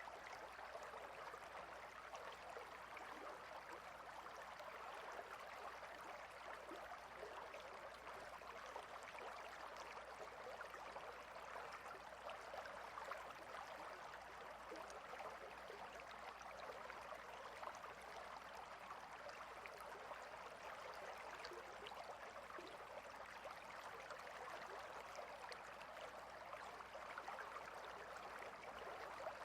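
Shallow river flowing over and between rocks: a steady, faint, even rush of babbling water.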